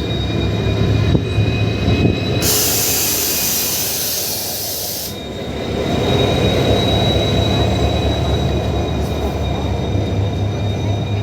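A train rolling past close by: a steady rumble of wheels and running gear with a steady high whine over it. A burst of hiss starts about two and a half seconds in and lasts about three seconds.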